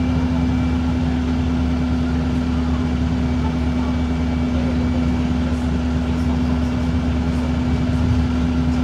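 Cummins ISB4.5 four-cylinder diesel engine of an Alexander Dennis Enviro 200 MMC bus running steadily, a constant drone with a strong low hum that holds one pitch.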